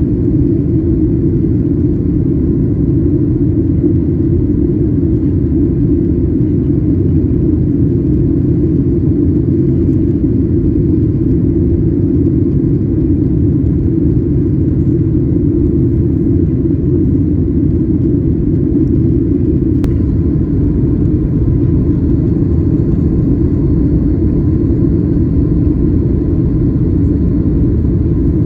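Steady low rumble inside the economy cabin of a Boeing 737-900ER: jet engine drone and airflow noise, even and unchanging.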